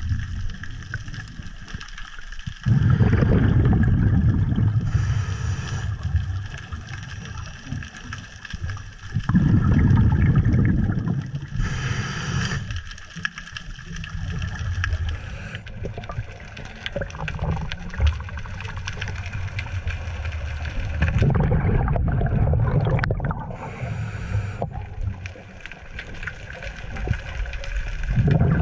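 A scuba diver breathing on a regulator, heard underwater through a camera housing. Long low bubbling rushes of exhaled bubbles come four times, six to twelve seconds apart, and the first three are each followed by a short hiss of the regulator on the inhale.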